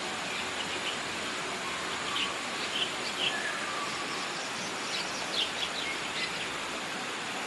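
Birds chirping in short, scattered calls over a steady rushing noise.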